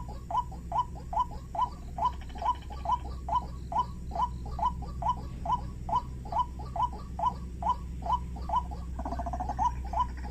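White-breasted waterhen (ruak-ruak) calling: a short, slightly rising note near 1 kHz repeated very evenly about three times a second, over a steady low hum. Near the end a second, busier call overlaps the series for about a second.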